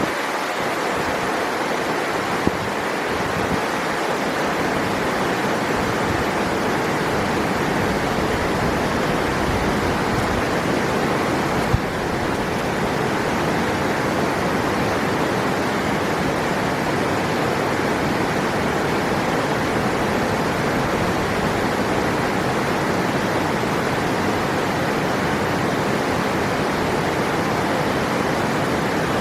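River water rushing steadily, with two brief faint clicks.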